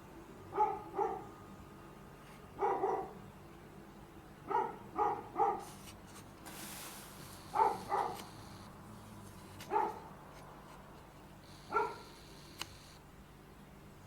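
Dog barking in short, sharp barks, singly or in quick runs of two or three, a few seconds apart. A brief hiss sounds about halfway through.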